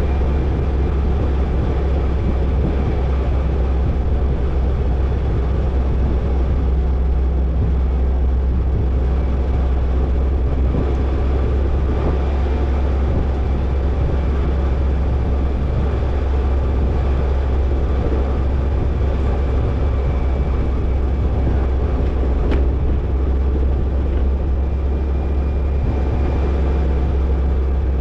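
Toyota Tercel 4WD wagon driving along a dirt trail: a steady low engine drone with road and body noise, and one light knock about twenty-two seconds in.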